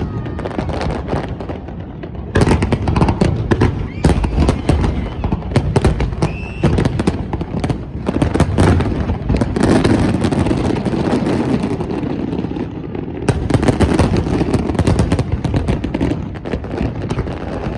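Fireworks going off in rapid succession: a dense, continuous run of bangs and crackling pops, with fresh louder volleys breaking out about two seconds in and again about thirteen seconds in.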